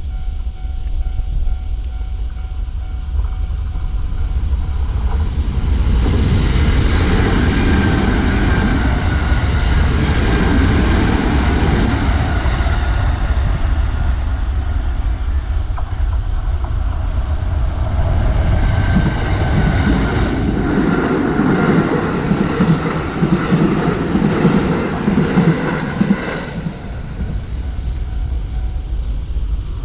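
Kintetsu electric train passing over a level crossing. Its wheels and motors build to a loud pass, with a gliding motor whine, from about six seconds in, and the sound drops away near the end.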